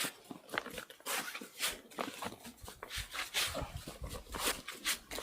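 Dry feeder groundbait being stirred and kneaded by hand: irregular rustling, scraping strokes of the crumbly mix.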